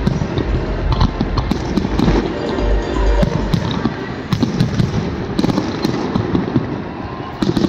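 Fireworks display: aerial shells bursting in quick succession, a dense run of bangs and crackles over a continuous low rumble.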